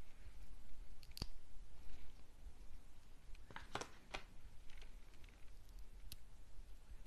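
A few sharp, crisp clicks: one about a second in, a quick cluster of three around the middle, and one more near the end, over a low steady hum.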